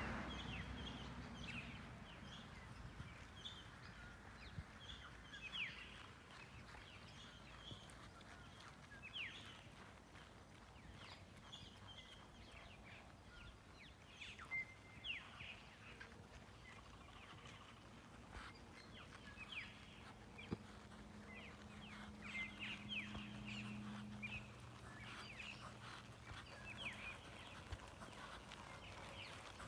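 Birds calling faintly, with many short chirps and quick whistled sweeps scattered throughout. A faint low hum comes in for a few seconds past the middle.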